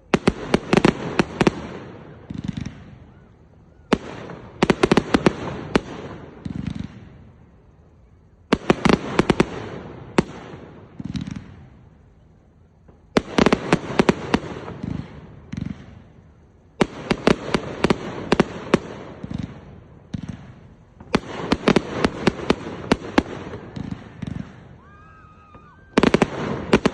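Fireworks going off in repeated salvos: clusters of rapid sharp cracks and bangs, each lasting two to three seconds, about every four seconds, with quieter fading rumble between them.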